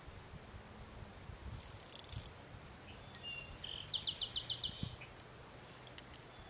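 A songbird singing: a harsh high note, a few short whistles at different pitches, then a quick trill of about seven notes.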